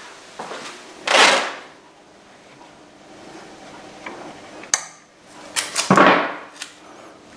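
Hand work on the motorcycle's engine casing: two short rasping noises, about a second in and again near the end, with a few sharp clicks and light knocks between them.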